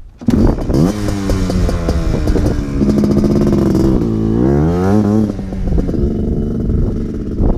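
ATV engine revving and running under throttle. Its pitch climbs over the first few seconds and holds, then dips and rises again about five seconds in before falling away into a rough, uneven rumble.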